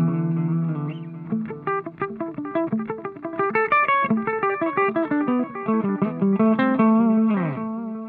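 Electric guitar played through a delay pedal set to a long delay time: a held chord, then a run of quick single notes, each echoed. Near the end the notes slide down in pitch and die away.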